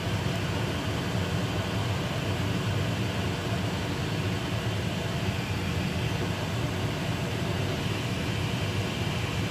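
Over-the-range microwave's vent fan running with a steady whooshing hum.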